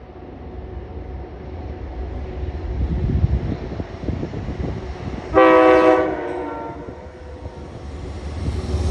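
Train horn sounding one short, loud blast about five and a half seconds in, over the low rumble of a train, which grows louder near the end.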